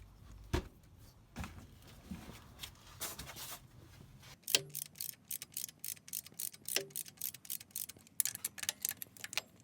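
Hand-tool work on an engine: a few scattered knocks, then from about four seconds in a run of quick, sharp, irregular clicks, like a ratchet or metal tools tapping.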